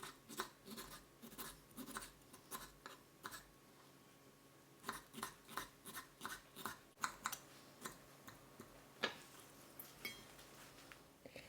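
Kitchen knife chopping tomato on a cutting board: quick taps of about three a second in two runs, with a pause after about three seconds and a few last taps near the end.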